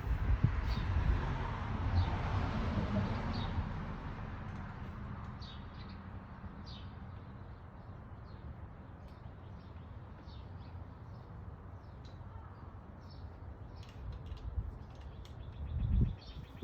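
Outdoor background with birds chirping in short calls at intervals. Over the first few seconds a broad rushing noise swells and then fades away.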